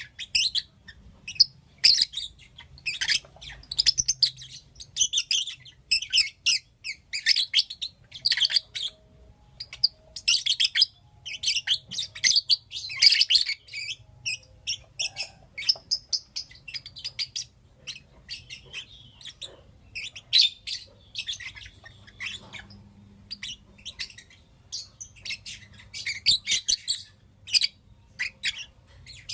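Lovebirds chirping and calling in rapid, high-pitched clusters of short notes, almost without pause, with a faint low hum underneath.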